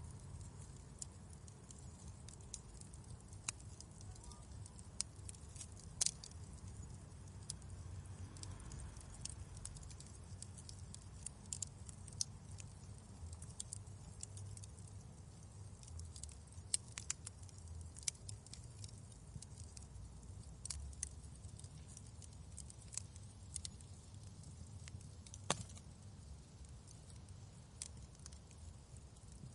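Wood fire crackling in a fireplace: a low steady rumble of flame under frequent irregular sharp pops and snaps, two of them louder, about six seconds in and near the end.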